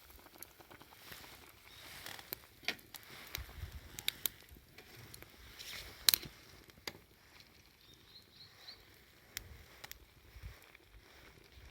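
Wood campfire crackling: irregular sharp pops and snaps over a faint hiss, the loudest pop about six seconds in. A few faint high chirps come in near the end.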